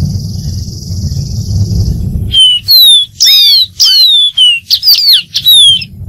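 A dark-throated seedeater sings a loud phrase of about eight clear whistled notes, mostly falling slurs. It starts a little over two seconds in, after a low rumble and a steady high hiss.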